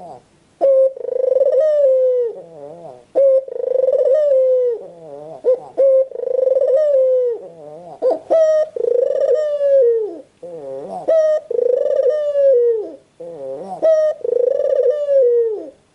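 White puter (Barbary dove) cooing over and over in loud, drawn-out phrases of one to two seconds. Some phrases waver in a rolling trill before a long held coo.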